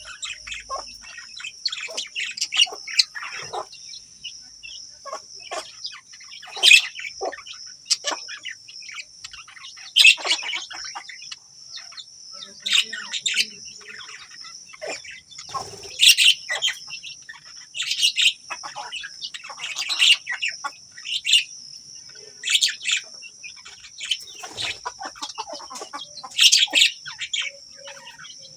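Budgerigars chirping and chattering continuously, with louder sharp calls every couple of seconds.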